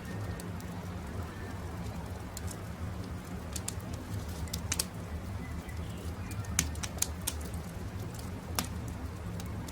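Wood campfire crackling, with scattered sharp pops over a steady low rumble, and birds calling.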